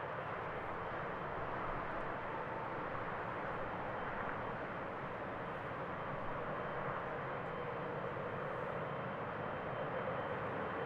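Jet airliner engines, a Boeing 777 freighter's turbofans, running in a steady rushing drone with a faint hum in it. The sound grows a little louder near the end.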